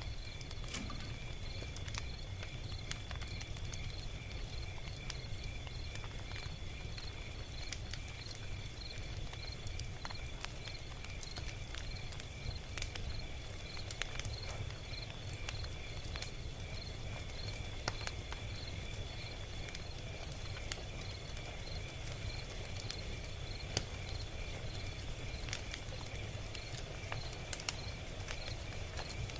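Log fire crackling: scattered sharp pops and snaps over a low steady rumble, with a steady, evenly pulsing high chirping, like crickets, in the background.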